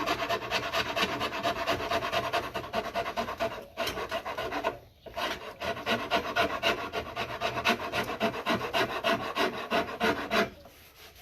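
Hand rasp cutting into the wooden neck of a bass guitar in quick, even back-and-forth strokes. The strokes pause briefly about five seconds in and stop shortly before the end.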